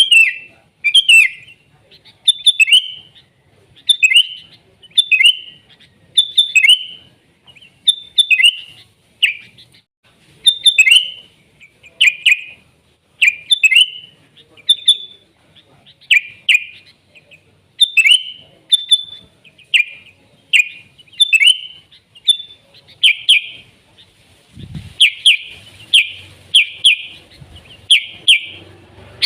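Sooty-headed bulbul (kutilang) singing energetically, repeating short whistled phrases about once a second. Near the end the phrases run together into a faster stretch.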